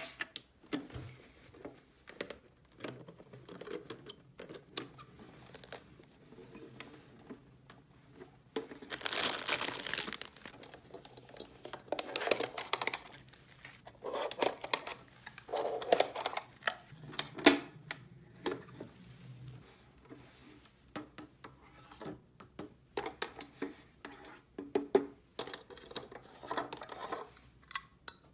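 Plastic packaging crinkling and tearing as it is handled, in irregular bursts, the longest about nine seconds in, with scattered small clicks throughout.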